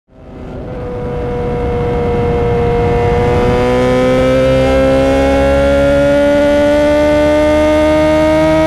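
Kawasaki Z1000 inline-four with Akrapovic headers and Vance & Hines Streetbrawler exhaust pulling hard at highway speed, its engine note climbing slowly and steadily as the bike accelerates, over heavy wind rush. The sound fades in over the first couple of seconds.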